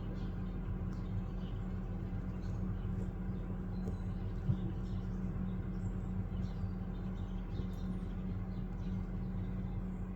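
Steady low hum, with faint short high chirps of small birds scattered throughout.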